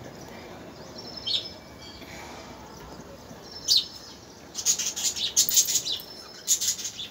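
Small birds chirping: a couple of separate chirps, then a quick run of chirps in the second half and one more near the end.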